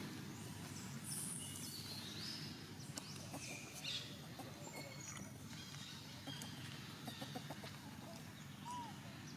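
Scattered short, high animal calls (chirps and squeaks) over a steady low background rumble.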